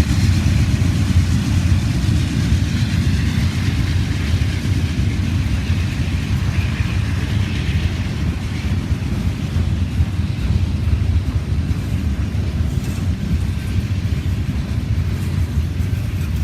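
Steady low rumble of a heavy vehicle running, with a hiss higher up that fades over the first half.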